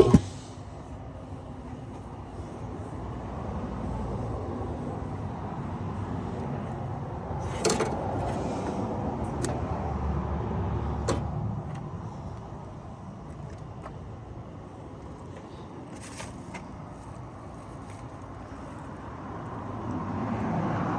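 A sharp knock at the start, then the rushing noise of a vehicle swelling over several seconds and fading again, with a few scattered clicks, and a swell again near the end.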